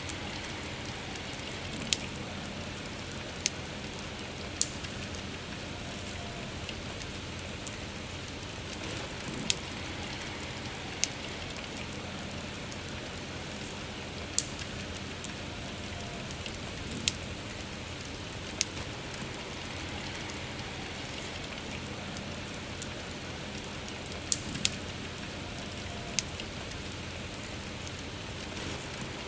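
Soft steady rain with a wood fire crackling, a sharp pop every few seconds among fainter crackles.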